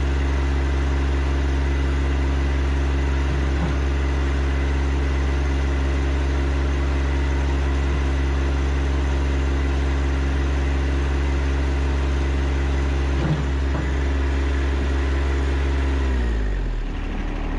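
John Deere 1025R compact tractor's three-cylinder diesel engine running steadily; about a second before the end its engine speed falls and the pitch drops.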